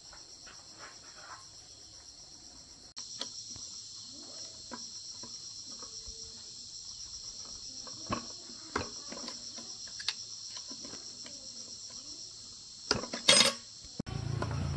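A steady chorus of crickets and other insects, with scattered light clinks and taps of metal tools and parts. There is a louder metallic clatter about a second before the end, and then a low steady hum cuts in at the very end.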